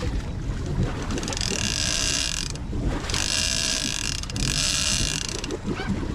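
Big-game fishing reel's ratchet clicker buzzing as line is paid out to set a bait at depth, in three runs of about a second each, over the low rumble of the boat and wind.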